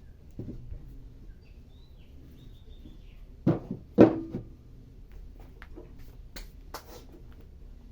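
Two sharp knocks about half a second apart, then scattered small clicks, with a faint high bird chirp early on.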